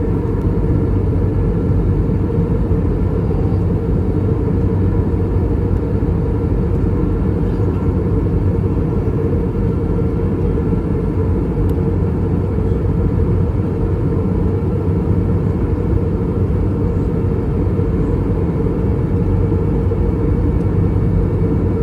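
Steady low roar of engine and airflow noise inside the passenger cabin of an Airbus A321-200 with IAE V2533-A5 engines, in flight at cruise, with faint steady tones over it.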